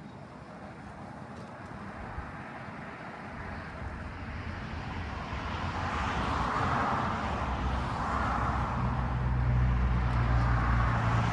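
Ford F350 pickup's 6.7-litre Power Stroke diesel V8 running at low speed as the truck backs in under the camper, growing steadily louder with a deep steady drone.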